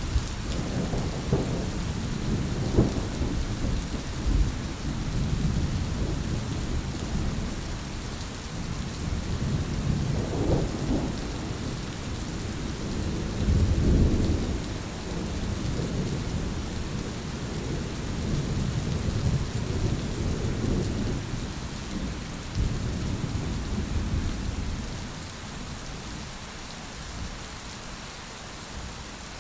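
Thunderstorm: steady rain hiss with rolling thunder rumbling low underneath. The rumbles swell and fade several times, loudest about halfway through, and the storm eases near the end.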